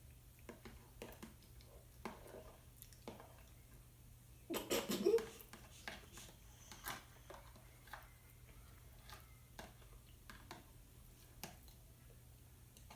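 Quiet eating sounds at a table: scattered small clicks and taps of a spoon against dishes, with a louder clatter about four and a half seconds in.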